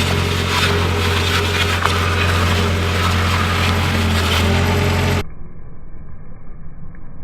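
Road roller engine running steadily, with crackling and crunching as things are crushed under the roller. About five seconds in the sound cuts off abruptly to a quieter, muffled vehicle rumble.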